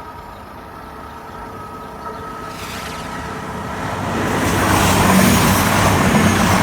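A train approaching and passing at a level crossing: the noise grows from about two and a half seconds in and becomes a loud, steady rush from about four seconds on.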